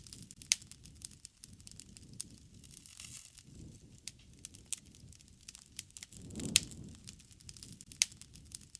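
A wood fire crackling: frequent sharp pops and snaps of the burning wood over a low rumble of flames that swells and fades. The loudest pops come about half a second in and about six and a half seconds in.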